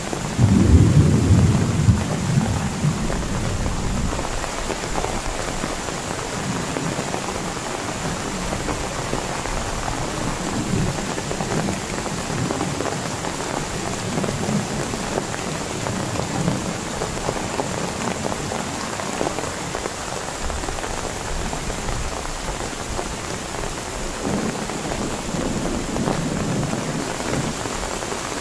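Heavy rain falling steadily in a thunderstorm, with a loud low rumble of thunder in the first few seconds and fainter rumbles later.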